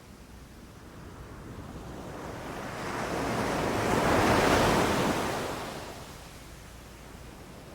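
Ocean surf: a single wave swells, breaks and washes in, loudest a little past halfway, then falls back to a low hiss.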